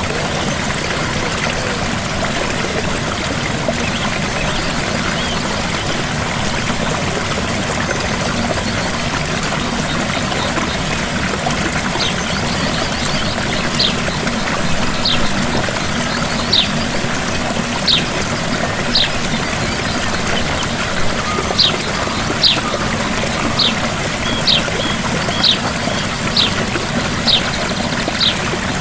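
Small waterfall splashing and trickling steadily. From a little under halfway through, a series of short, high, falling chirps sounds over it, about one a second, standing out above the water.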